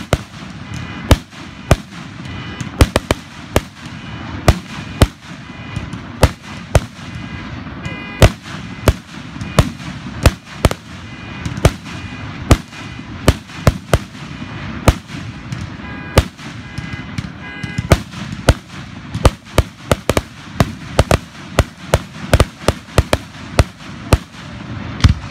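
Aerial fireworks shells bursting in a fast, irregular barrage of sharp bangs, about two a second.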